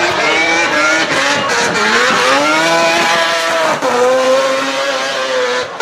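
A tuned car engine running hard at high revs. Its pitch dips about two seconds in, climbs back and then holds fairly steady before cutting off abruptly at the end.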